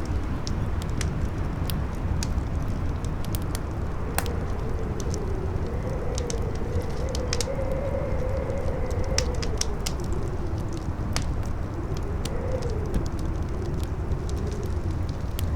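Campfire crackling with sharp, irregular pops over the steady low rush of a strong wind, whose howl rises and falls in pitch.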